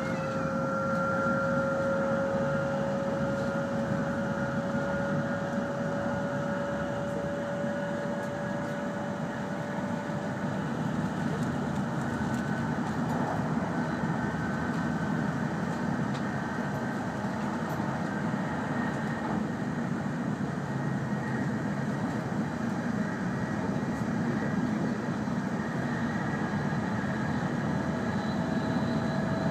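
Cabin running noise of an E5 series Shinkansen travelling at speed: a steady rumble and rush with a whine that rises slowly in pitch and fades out about a third of the way in, and a new whine coming in near the end.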